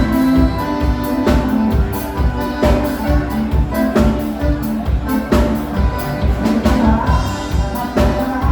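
Live dance band playing an instrumental passage, with sustained instrument notes over a steady drum and bass beat.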